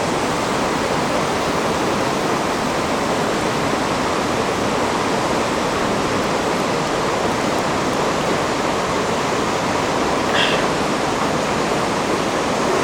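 A river rushing steadily over rocks, with a brief high sound about ten seconds in.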